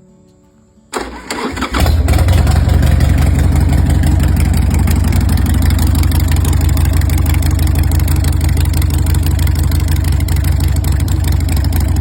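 Harley-Davidson Sportster 1200 Evolution V-twin started by its electric starter, catching about a second in and then running steadily and loudly at a steady engine speed.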